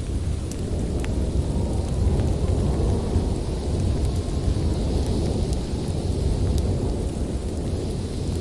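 Snowstorm wind blowing in a steady low rumble, with a wood fire crackling: scattered sharp pops and snaps over the wind.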